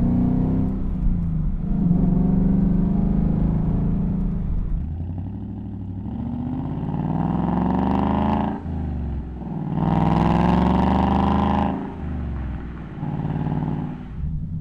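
2018–2023 Ford Mustang GT's 5.0 L V8 through an XForce Varex 3-inch valved cat-back exhaust. It runs steadily for the first few seconds, then climbs in pitch under throttle, drops off suddenly about eight and a half seconds in, climbs again, and eases off near the end.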